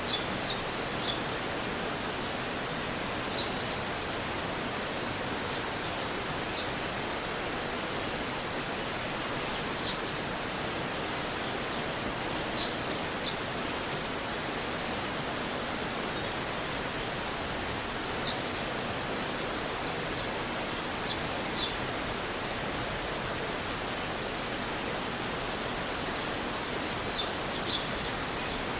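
Stream water running steadily, with short high chirps in twos and threes every few seconds.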